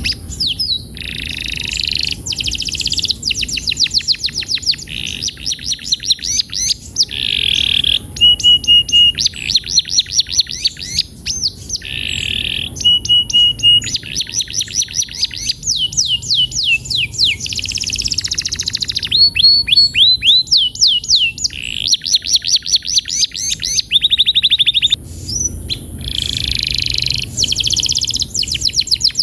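Male domestic canary singing a long, continuous song: fast runs of quick downward-sweeping notes alternating with buzzy rolls and short steady-pitched trills, phrase after phrase with only brief gaps.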